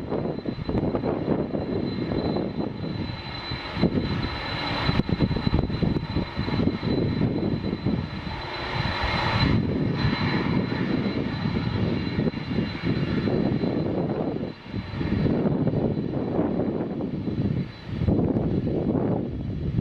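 Jet airliner's engines running as it passes: a continuous rumble with a steady high whine, swelling into a louder hiss about halfway through.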